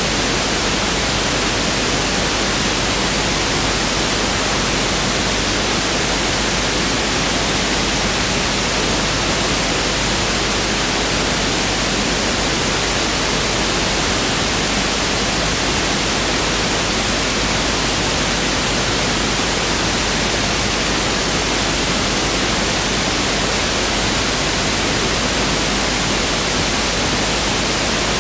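Pink noise test signal: a steady, even hiss that does not change.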